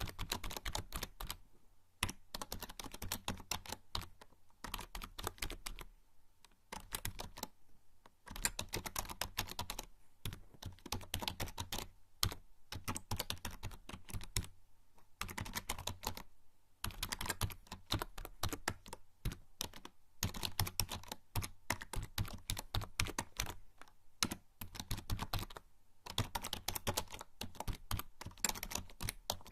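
Continuous typing on a membrane computer keyboard: rapid runs of soft key clicks in bursts of a few seconds, broken by short pauses.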